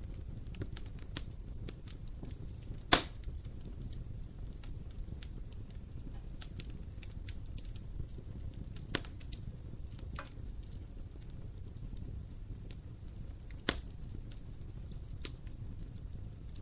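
Wood fire burning in a fireplace: a steady low rumble of the flames with frequent small crackles and a few sharp pops, the loudest about three seconds in.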